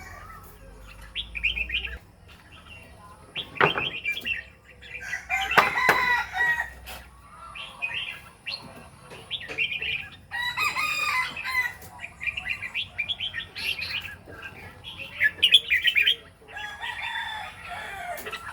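A bird calling over and over, short chirps between longer pitched calls, with two sharp knocks about four and six seconds in.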